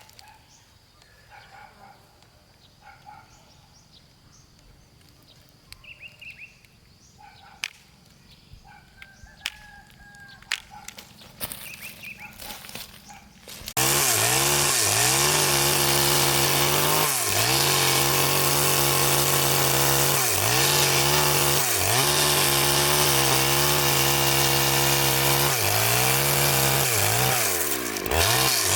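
Quiet at first, with a few faint high chirps and clicks. About halfway through, a two-stroke chainsaw comes in suddenly and loudly, and runs hard through wood, its pitch dipping briefly several times as it bogs and recovers in the cut.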